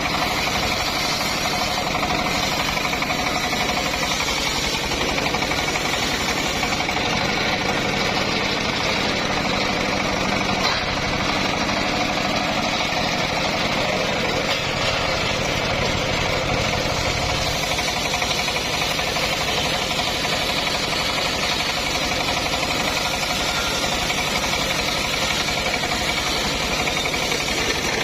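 Engine-driven homemade circular sawmill running steadily, with a few thin, steady whining tones over the engine noise.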